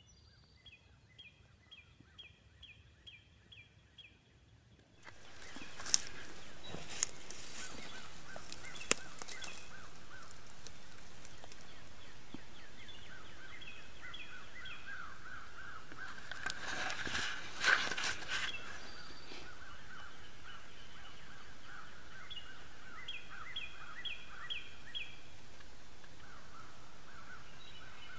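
Small birds calling in quick series of short repeated notes over steady outdoor hiss. The hiss comes up about five seconds in, and a few sharp clicks and a brief rustle fall near the middle.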